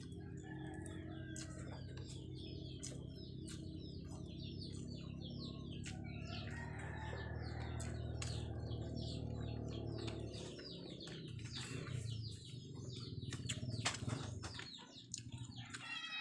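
Small birds chirping in many quick, short calls, over a steady low hum, with scattered clicks.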